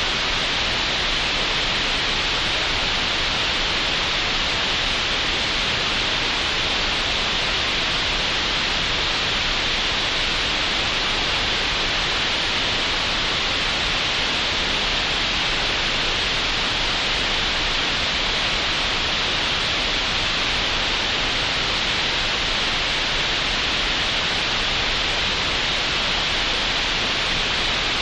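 Synthetic green noise made in Audacity: a steady, unbroken hiss that never changes, strongest in the upper middle of the range.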